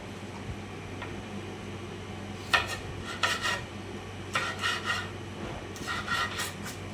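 Dishes and metal utensils clattering and scraping in four short bursts, over a steady low hum.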